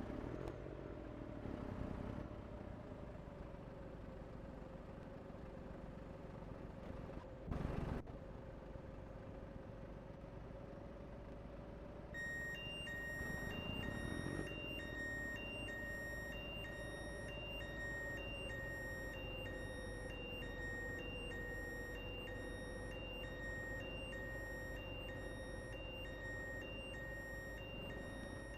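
Scania vehicle running with a steady drone. There is a short knock about seven seconds in, and from about twelve seconds in an electronic warning beep repeats steadily.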